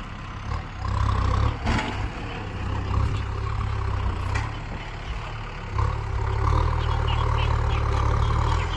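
Kubota M6240 tractor's diesel engine running, its deep rumble swelling louder about a second in and again for the last few seconds, with a couple of short knocks.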